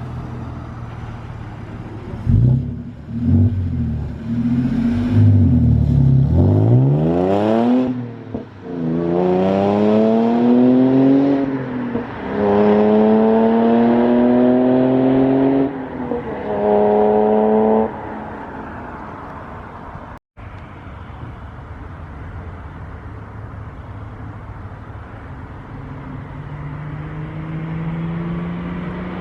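2015 Audi B8.5 S4's supercharged 3.0-litre V6, tuned and with a rear muffler delete, pulling hard through the gears. The engine note climbs and drops at each upshift, about eight, twelve and sixteen seconds in. It then eases to a steady cruise.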